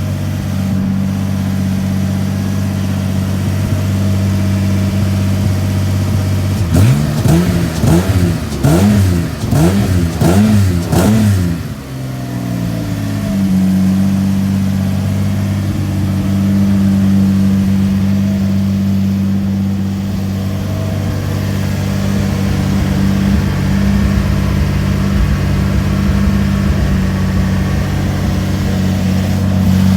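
Renault Clio Trophy engine idling steadily on its cold start, blipped through a quick run of about five revs from around seven seconds in, then dropping back to a steady idle.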